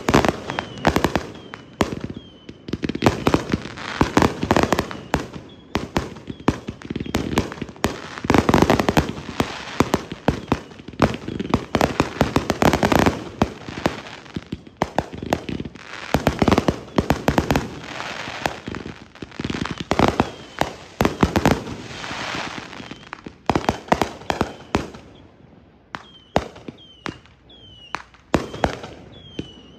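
Consumer fireworks cakes firing in a long dense barrage: rapid bangs and crackling bursts overlapping one another, thinning out to sparser separate pops near the end.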